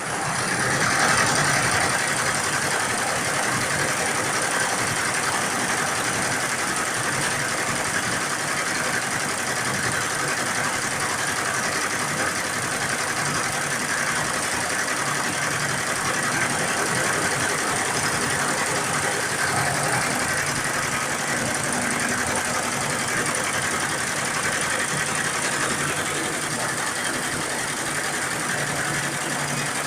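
Computerized embroidery machine running steadily, stitching.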